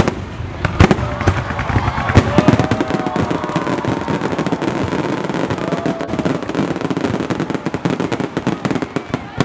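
Fireworks display: aerial shells bursting with a dense, rapid crackle and sharper bangs among them.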